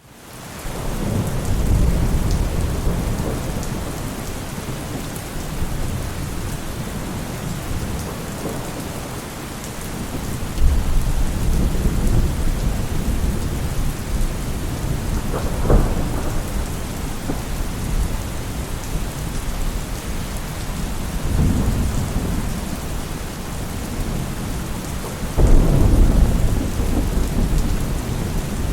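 Steady rain falling, with low rolls of thunder swelling and fading several times, one sharper crack near the middle, and the loudest roll starting suddenly near the end.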